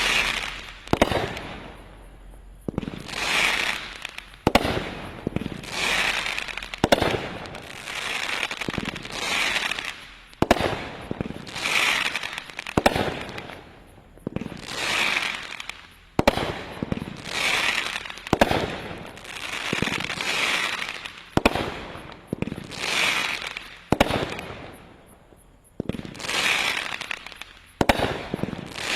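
Consumer firework cake firing shot after shot, about one every two to three seconds: each a sharp bang followed by a spreading crackle from the bursting stars.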